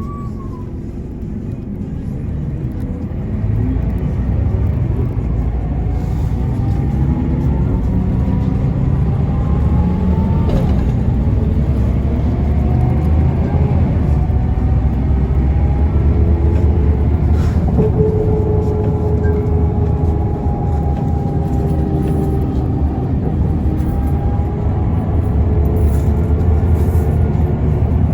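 Mercedes-Benz O405N2 city bus in motion, heard from inside the cabin: a steady low engine and road rumble. It grows louder about three and a half seconds in, and a faint whine then rises in pitch and levels off as the bus gathers speed.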